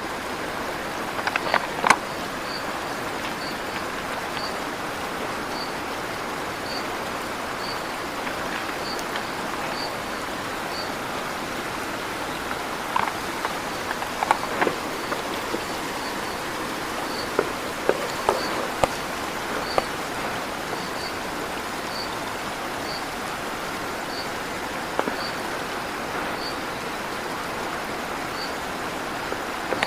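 River water rushing steadily, with a high chirp repeating about once a second and a few scattered short, sharp clicks or calls.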